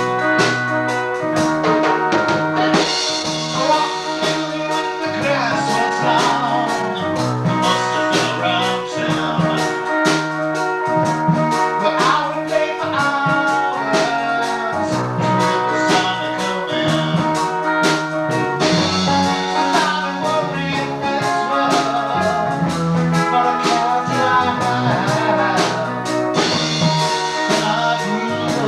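Band music: a drum kit keeping a steady beat under guitar and keyboard, with a singing voice.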